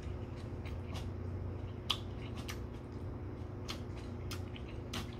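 A person chewing a mouthful of noodles with mouth closed, giving scattered soft wet clicks and smacks, one sharper click about two seconds in, over a steady low hum.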